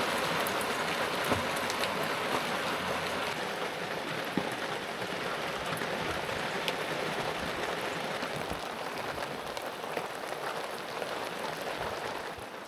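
Heavy rain falling steadily, a dense hiss with scattered sharper drop ticks, easing slightly near the end.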